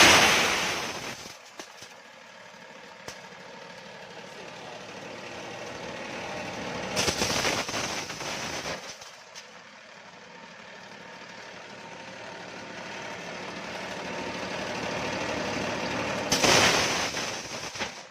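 Electric-motor-driven corn sheller running and shelling corn, a steady mechanical noise broken by three loud surges: one at the start, one about seven seconds in and one near the end, each fading over a second or two.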